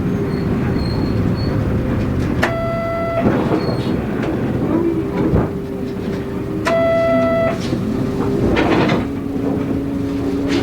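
Interior ride sound of a city bus: the engine runs under road noise, its pitch shifting up and down as the bus pulls away and changes gear. Two short buzzer tones, each under a second, sound about two and a half and about seven seconds in.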